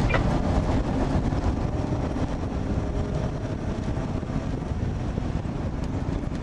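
A car driving at speed, heard from inside the cabin: steady engine and road rumble with wind noise, and a faint steady hum.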